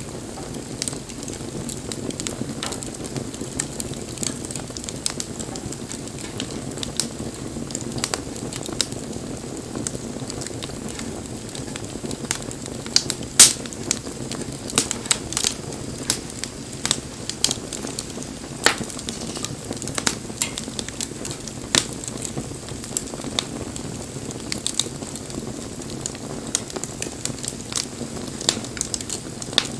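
Wood bonfire burning: a steady low rush of flame with frequent sharp crackles and pops, one loud pop a little before halfway through.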